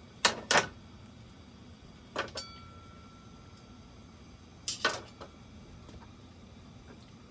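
Things being handled and set down on a camp table: a few sharp knocks in pairs, and about two seconds in a short ringing clink like tableware touching.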